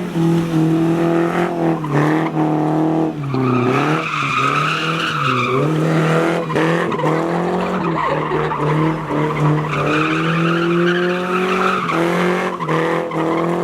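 Car drifting: the engine is held at high revs, its pitch dipping briefly several times as the throttle is worked, while the tyres squeal in long stretches, loudest about four to six seconds in and again near ten to twelve seconds.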